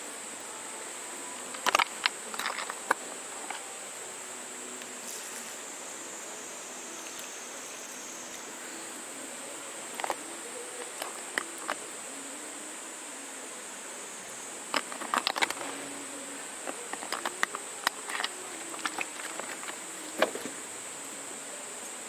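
Small wood fire burning in an Esbit pocket stove, the twigs crackling and popping in irregular clusters of sharp snaps over a steady high-pitched hum.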